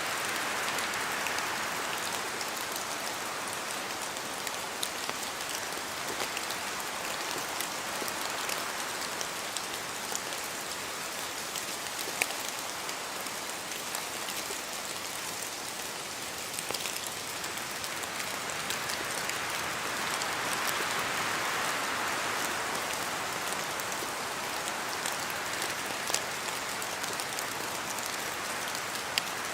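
Steady rain falling in a forest, a continuous hiss with scattered sharper drops ticking close by. The hiss swells gently about twenty seconds in.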